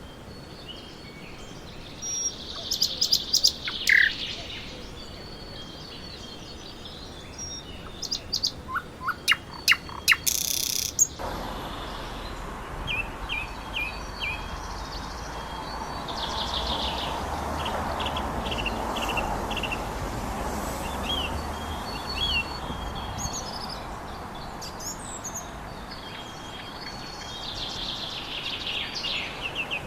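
Small birds chirping, with bursts of short, rapid calls and quick falling chirp notes. About a third of the way in there is an abrupt change to another recording with more steady background noise under fainter chirps.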